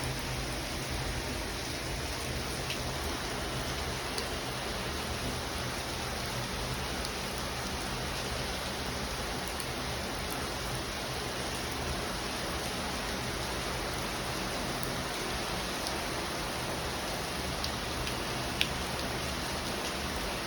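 Steady heavy rain falling and hitting surfaces, with a few scattered drip ticks and one sharper tap near the end.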